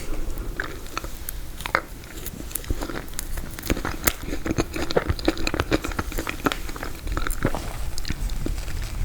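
Close-miked chewing and biting of frozen tiramisu, with a dense run of sharp, crisp crunches and wet mouth clicks as the frozen cake is broken down.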